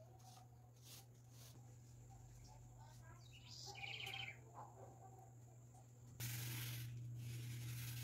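A faint steady hum, with a short, rapidly pulsed bird chirp about four seconds in. From about six seconds a louder, steady hiss sets in.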